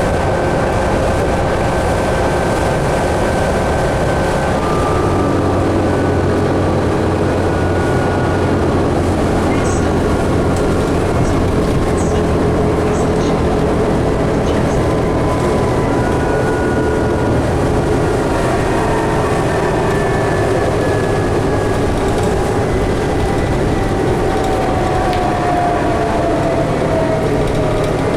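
A 2011 New Flyer D60LFR articulated bus heard from inside the cabin while under way: a steady engine and road drone with several whining tones, one of which falls in pitch near the end. A few faint ticks come in the middle.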